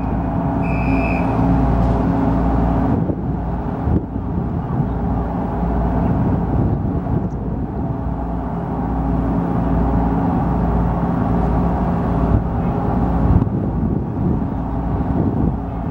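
Steady low rumble of a car ferry's diesel engines, with a constant mechanical hum. A short high beep sounds about a second in.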